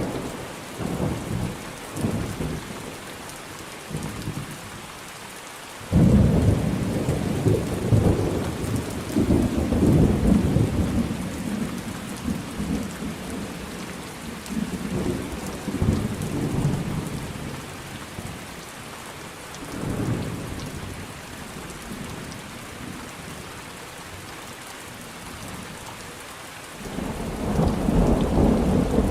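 Thunderstorm: steady rain with rolling thunder. A loud thunderclap breaks in suddenly about six seconds in and rumbles on for several seconds, and another peal builds near the end.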